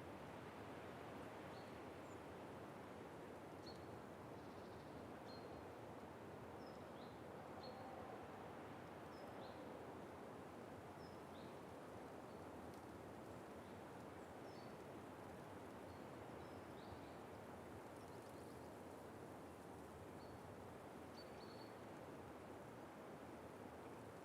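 Faint outdoor ambience: a steady hiss of background noise with a bird repeating short, high chirps about once a second, some of them falling in pitch.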